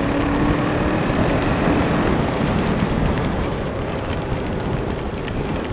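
Riding noise from a 2000 Kawasaki ER-5 motorcycle heard through a helmet camera: steady wind and road rush over its parallel-twin engine, with a faint engine tone that fades out in the first couple of seconds.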